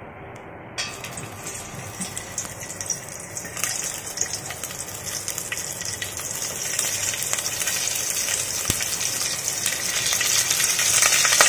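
Stuffed brinjals frying in a little hot oil in a brass pot: sizzling with small crackles that starts suddenly about a second in and grows steadily louder.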